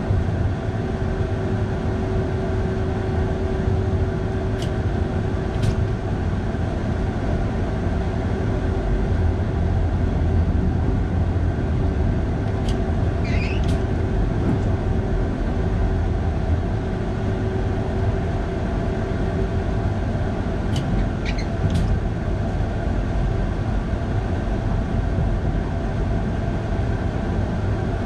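Electric train running on the steep Flåm Line, heard from the driver's cab: a steady low rumble with a steady hum, and a few short, high squeaks scattered through it.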